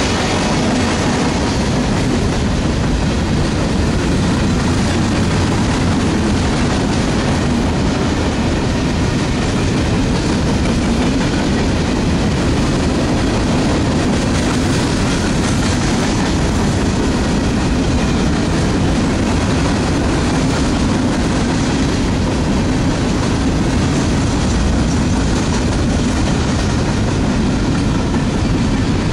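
Freight train cars rolling past, a steady, loud noise of steel wheels running on the rails.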